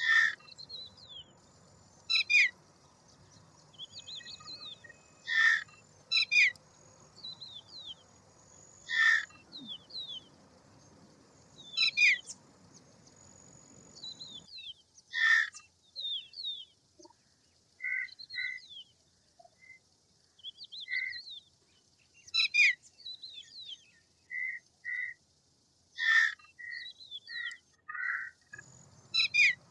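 Birds calling: loud, short, harsh calls about every three seconds, with quicker high chirps in between.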